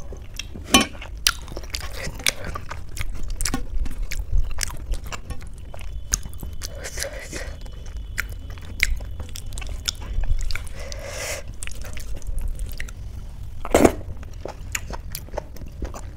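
Close-up chewing and wet mouth clicks of someone eating soft boiled rice with dal and mashed potato by hand, with scattered louder smacks.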